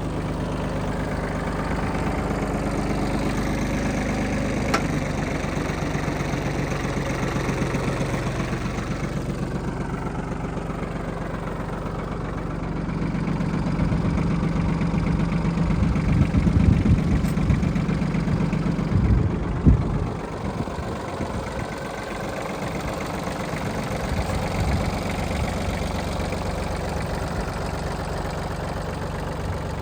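Iseki TM15's 15 hp three-cylinder diesel engine running at a steady low speed. The pitch drops slightly about five seconds in. From about the middle of the clip the sound gets louder and rougher for several seconds, with a few heavy low thumps, then it settles back to a steady hum.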